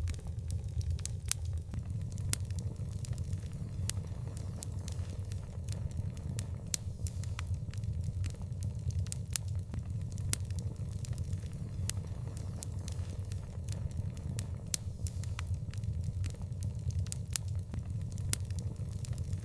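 Wood fire crackling: many sharp, irregular pops and snaps over a steady low rumble.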